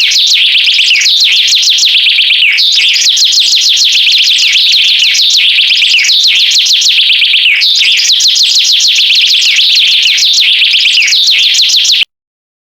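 Dense, rapid high-pitched bird chirping, many chirps a second with short lulls every couple of seconds, cutting off abruptly near the end.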